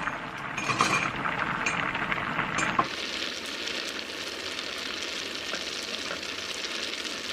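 Food sizzling in a hot frying pan, with a few clinks and stirring sounds in the first three seconds. It then changes to an even, steady sizzle.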